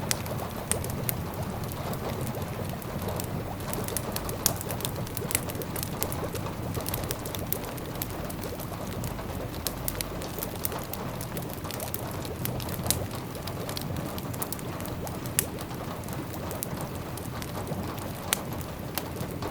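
Fireplace fire crackling with scattered sharp pops over a steady patter of autumn rain on the windows, with a low steady rumble underneath.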